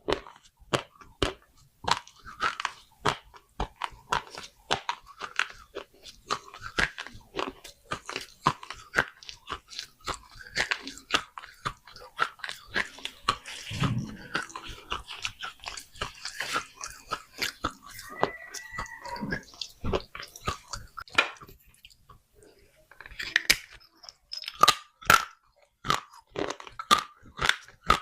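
Small baked clay pots being bitten and chewed close to the microphone: a dense run of sharp, dry crunches, with a pause of about two seconds near the end.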